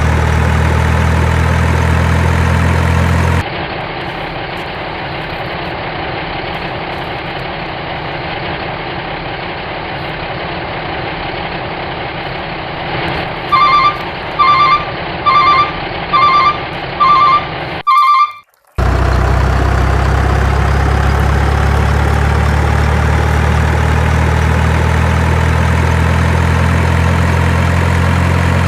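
A truck engine idles steadily with a low hum. A few seconds in it cuts to a quieter stretch, where a reversing alarm beeps six times, evenly spaced. After a brief dropout the idling hum comes back.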